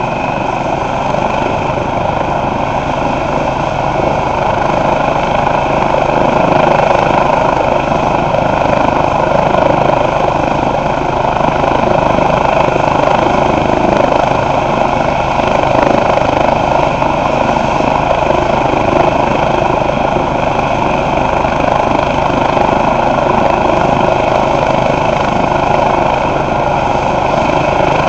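Eurocopter EC135 police helicopter's twin turbine engines and rotors running steadily, growing a little louder over the first few seconds and then holding.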